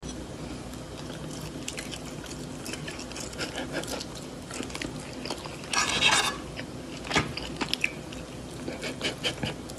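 Chewing and biting sounds of food being eaten, with sharp clicks and a short loud burst of noise about six seconds in, over a steady low hum.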